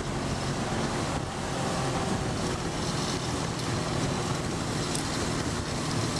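Motorboat engine running steadily under way, with a low even hum over a wash of water and wind noise.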